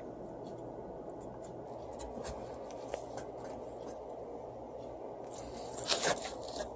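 Faint rubbing and light clicks, with a brief louder scrape about six seconds in, over a steady low hiss: the camera being handled.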